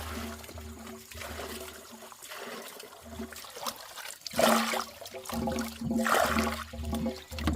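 Water splashing and pouring, with the loudest surges about four and a half and six seconds in, over a steady low hum.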